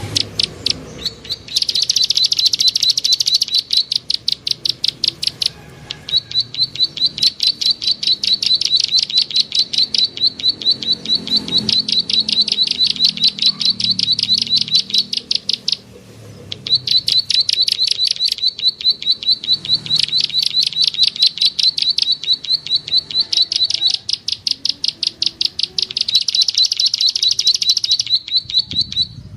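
Bird lure recording: a small bird's rapid, evenly repeated high clicking chirps, many per second, in long runs of several seconds separated by brief pauses.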